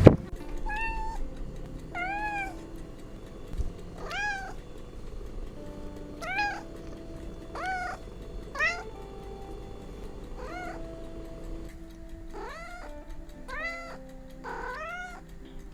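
A cat meowing over and over, short high rising-and-falling meows every second or two, with soft background music beneath.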